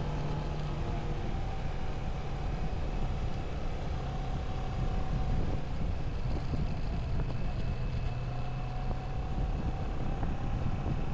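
Moto Morini motorcycle cruising at a steady speed, with strong wind rushing over the camera microphone and the engine's steady hum underneath.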